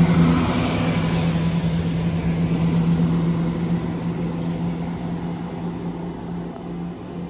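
Class 170 Turbostar diesel multiple unit pulling away, its diesel engines running with a steady hum that fades as the train draws off.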